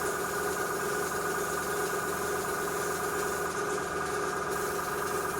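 Small airbrush compressor running with a steady, even hum while the airbrush sprays paint.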